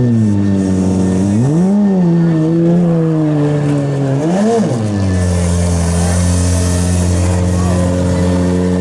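Demolition derby car engine revving, its pitch rising and falling three times, then settling into a steady run for the second half.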